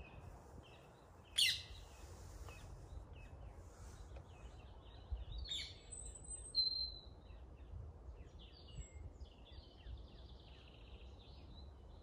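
Songbirds calling and singing: short chirps and trills, with a loud sharp call about a second and a half in and another about halfway through, over a faint low rumble.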